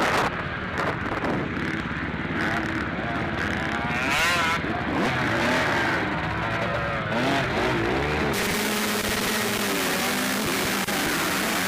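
Motocross bikes racing, their engines revving up and down over and over, heard over a constant rough noise.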